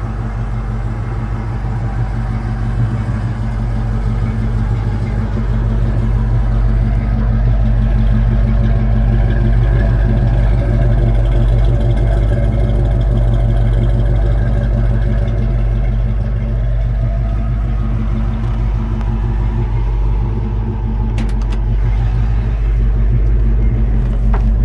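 1968 Ford Mustang 'Bullitt' car engine running at a steady speed with a deep, even rumble, a few light clicks near the end.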